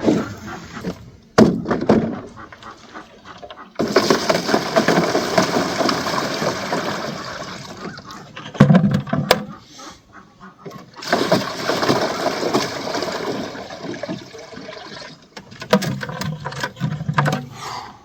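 Water pouring and splashing out in two long gushes of about four seconds each, as duck water is dumped and refilled around frozen pools. A few sharp knocks come first.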